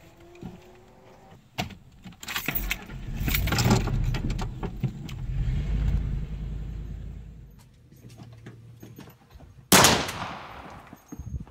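Vehicle engine pulling away under hard acceleration, heard from inside the cab: a low rumble with road noise that swells over a couple of seconds, holds, then fades out. Near the end, one sudden loud burst of noise that dies away over about a second.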